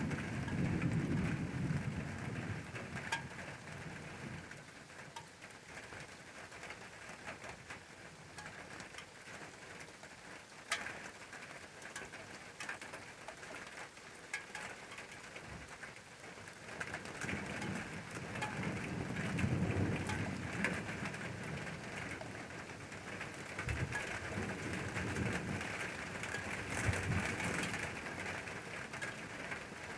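Steady rain falling, with a few sharp drop ticks. Low rumbling swells come in near the start and again through the second half.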